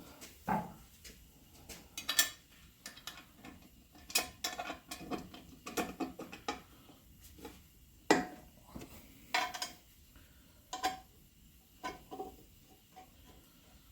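Irregular metallic clinks and knocks as fabricated metal parts are handled and fitted together, a dozen or so scattered through, some with a brief ringing after the hit.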